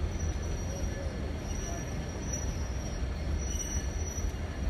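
Railroad car rolling slowly along the track, heard from its open window: a steady low rumble of wheels on rail with a thin, steady high-pitched wheel squeal over it.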